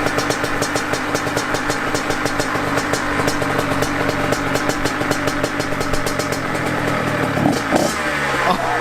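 Dirt bike engine idling steadily, with a short rise in revs near the end.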